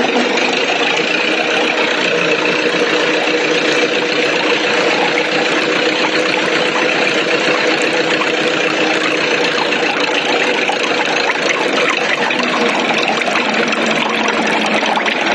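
Small motor of a model tractor water pump running steadily with an even whine.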